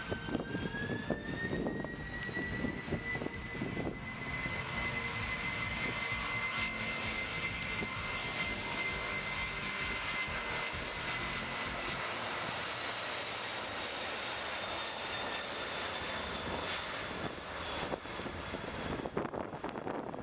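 Jet engines of a Boeing 767-300ER airliner spooling up: a whine rises in pitch over the first couple of seconds, then holds steady over a loud roar as the engines run at high thrust.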